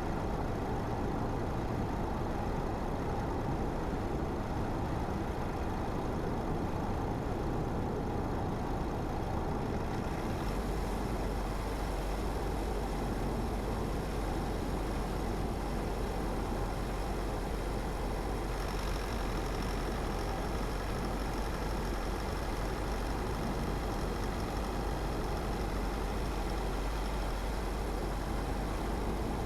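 Car driving steadily along a road: continuous engine and tyre noise. The rumble and hiss step up about ten seconds in, and the hiss grows brighter again some eight seconds later, as with a change of road surface or speed.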